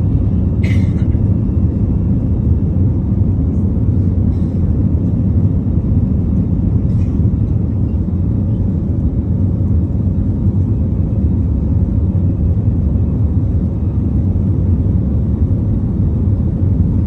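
Airbus A321 jet airliner during takeoff, a loud steady low rumble of engines and airflow that holds even throughout.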